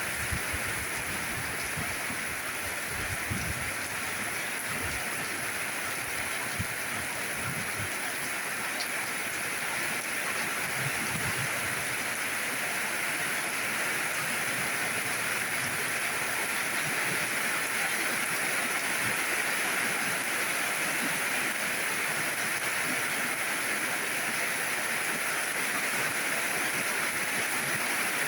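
Steady rainfall, an even hiss that grows slightly louder in the second half.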